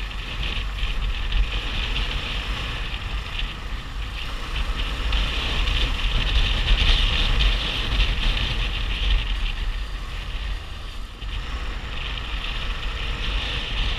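Police patrol motorcycle running at speed, its engine a steady low rumble under heavy wind buffeting on the microphone.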